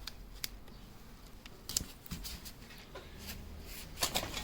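Light handling sounds of masking tape being measured out and laid on a motorcycle helmet: a few scattered small clicks and taps over a faint low hum.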